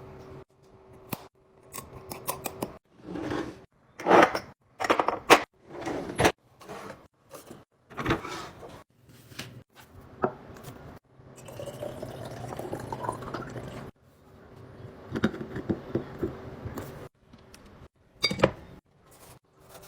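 Fridge restocking: bottles, jars and containers knocking and clinking as they are set down and handled, with liquid poured into a container for a few seconds a little past halfway, its pitch rising as it fills.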